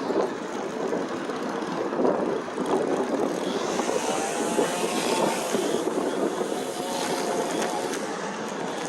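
Wind rushing over a handlebar-mounted phone's microphone during an e-bike ride, mixed with tyre and road noise, with a faint wavering thin tone coming and going.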